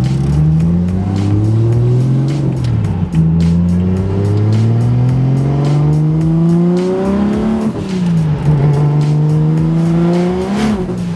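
BMW 135i's single-turbo N54 straight-six, with no exhaust (open downpipe), accelerating hard through the gears, heard from inside the cabin. The engine pitch rises, drops at a shift about three seconds in, rises again, drops at another shift near eight seconds, then climbs slowly.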